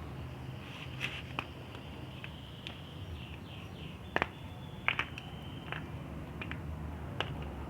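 Crunchy chalk being crushed: scattered sharp crackles and snaps at irregular intervals, the loudest a close pair about halfway through, over a faint steady hiss.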